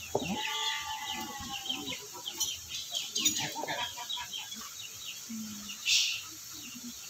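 Birds chirping over and over, with a longer drawn-out call in the first second or so, over faint background murmur. A short hiss comes about six seconds in.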